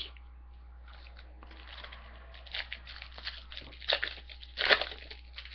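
Trading cards and a foil card-pack wrapper being handled: a string of short crinkling and rustling sounds, the loudest about four seconds in and again near five.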